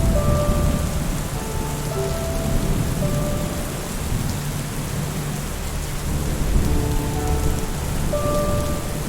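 Steady rain with a low rolling rumble of thunder that swells and fades. Soft held musical notes sound faintly now and then over it.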